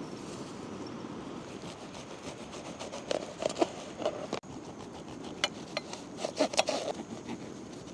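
Scattered small snaps, clicks and rustles of hands working at close range, starting about three seconds in, over a steady low hiss.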